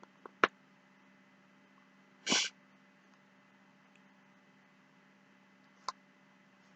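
A person eating. A few sharp clicks come just after the start and another near the end. About two seconds in there is one short, loud breathy burst, like a sniff or a sneeze-like snort.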